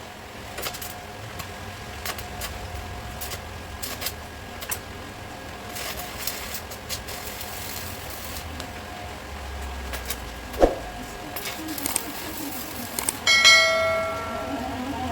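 Light clicks and knocks of tools on metal, with one sharp knock about ten and a half seconds in. Near the end a struck piece of metal clangs and rings on like a bell, fading over about a second.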